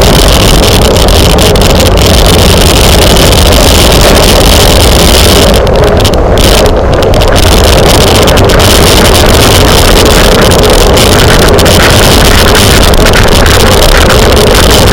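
Wind rushing over a camera microphone on a racing bicycle at speed: a loud, steady rush with heavy low rumble that eases briefly about six seconds in.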